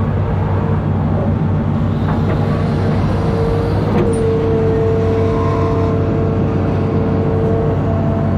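Amphibious excavator's diesel engine running steadily under load, with a steady whine over the engine note and a single sharp click about four seconds in.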